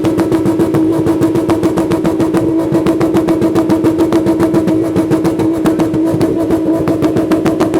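VW Golf Mk3's engine held at high revs with the throttle pinned, its exhaust giving a loud, steady drone with a fast even pulse. This is an exhaust decibel test, and it reads 118.3 dB.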